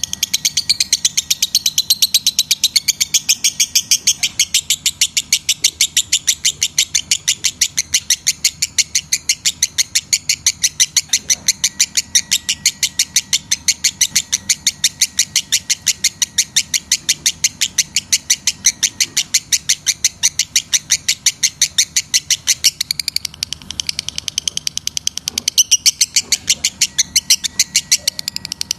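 Lovebird chattering in a long unbroken run of quick, high chirps, about five a second.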